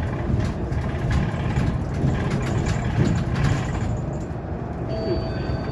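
Cabin noise inside a Hyundai Elec City 2 electric city bus on the move: a steady low road and tyre rumble with frequent light rattles, and a brief faint tone about five seconds in.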